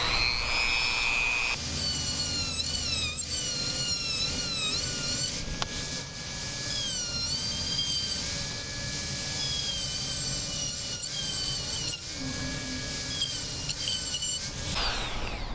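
Dremel rotary tool running, a high whine whose pitch dips and wavers as the bit is pressed into the work. It spins up at the start, shifts speed after a second or so, and winds down near the end as it is switched off.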